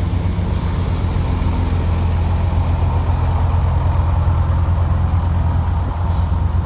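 Heavy engine of road-paving machinery running steadily, with a constant deep low hum.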